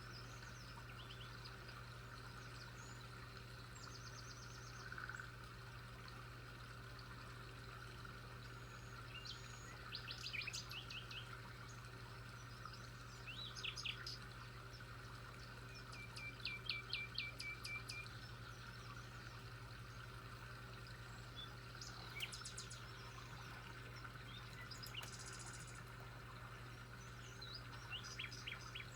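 Faint birdsong: several short bursts of rapid high chirps, the longest a run of about two seconds in the middle, over a steady low hum.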